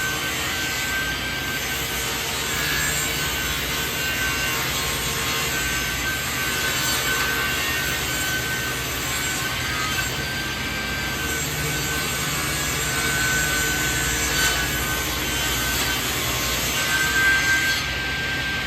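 Power saw cutting lengthwise through an old wooden beam to mill it into planks. A steady cutting noise runs throughout, with a thin high whine that drops out and returns every few seconds.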